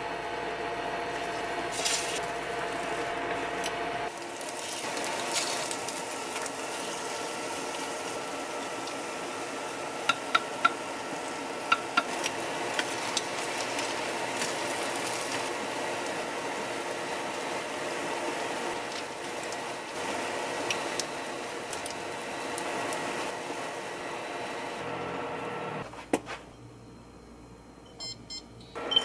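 Egg-coated slices frying with a steady sizzle in a frying pan, with a few light clicks of wooden chopsticks against the pan about ten to twelve seconds in. The sizzle stops near the end.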